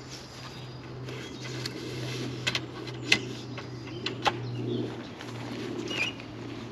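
A pigeon cooing softly in the woods, with a few sharp clicks of gear being handled in the middle and a short bird chirp near the end, over a steady low hum.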